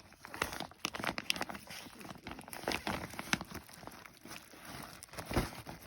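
Packaging being handled: crinkling and rustling, with a rapid, irregular run of small clicks and crackles.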